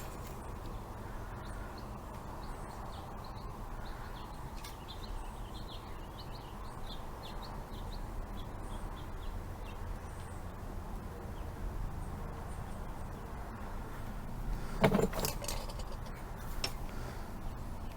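Steady low background hum with faint high chirps, and a brief metallic clatter about fifteen seconds in, with a smaller one shortly after, typical of small parts or a tool being handled on a workbench.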